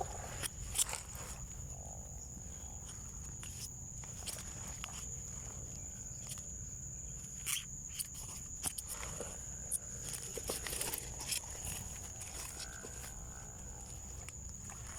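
Footsteps and rustling through vegetation with scattered clicks, over a steady high-pitched insect trill.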